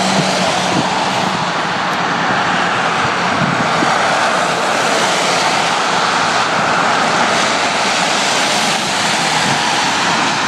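Road traffic passing close by: a steady, unbroken rush of tyre and engine noise.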